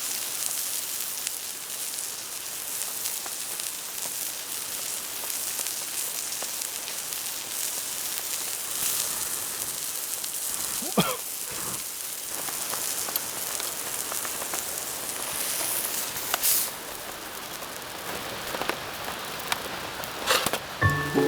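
Steady rain falling, with scattered drops and sharp pops, and a campfire crackling. A short squeak sweeps up and down about halfway through.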